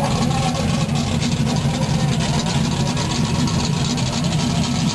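1969 Plymouth Road Runner's 440 Six Pack big-block V8 idling steadily through its dual exhaust.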